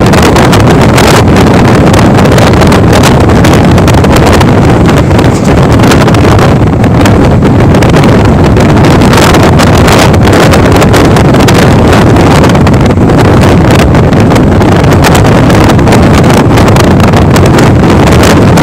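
Loud, steady wind buffeting the microphone over the running noise of a moving passenger train.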